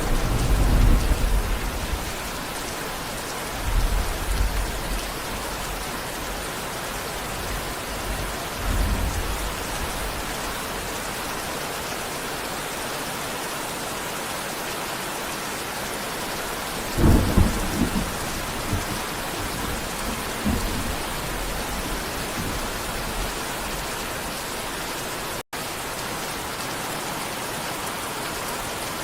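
Steady heavy rain with rolls of thunder rumbling several times; the loudest, sharpest thunder comes a little past the middle.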